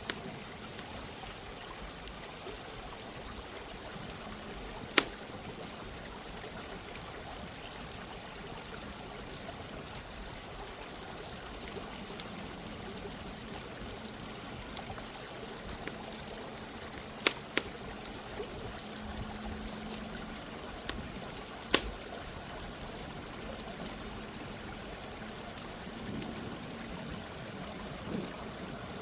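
Steady flow of running water, with the sharp, irregular pops of a crackling campfire over it; the loudest pops come about 5, 17 and 22 seconds in.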